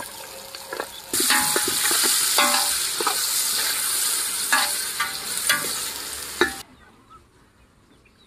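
Chopped vegetables frying in hot oil in a large metal pot, sizzling loudly from about a second in while a steel spatula stirs and scrapes against the pot with repeated clinks. The sizzling cuts off suddenly near the end.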